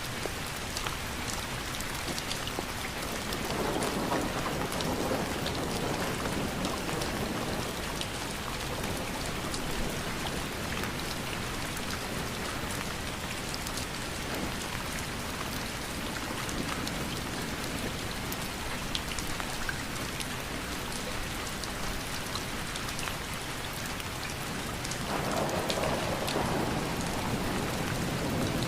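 Steady rain, with individual drops ticking throughout, and low rolling thunder swelling up twice: a few seconds in and again near the end.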